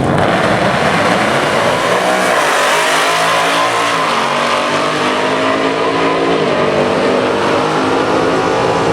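A Chevrolet Camaro and a Dodge Challenger, both with V8 engines, running at full throttle down a drag strip. The engine note climbs in pitch and drops back at each upshift, several times over.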